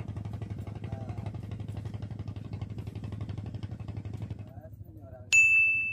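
A steady low engine hum that fades out about four and a half seconds in, then a single sharp ding from a small bell that keeps ringing for over a second: the bite bell on a fishing rod tip, signalling a fish taking the bait.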